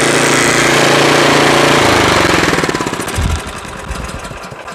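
Craftsman 28-inch two-stage snowblower's engine running steadily, then shut off: about two seconds in it starts to slow, its firing beats spreading apart as it winds down to a stop.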